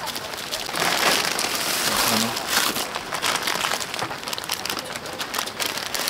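Rain shower falling on a camping tent: a steady hiss of rain with many separate drop hits on the fabric, swelling for a couple of seconds about a second in.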